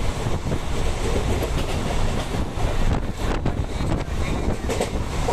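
Passenger train running along the track, heard from inside a coach: a steady heavy rumble of wheels on rail with a few sharper clacks a little past the middle.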